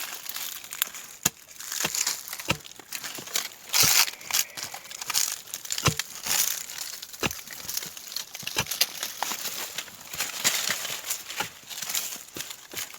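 Digging and prying in dry soil around a serut tree stump: irregular knocks of the tool among crackling, crumbling soil and dry debris.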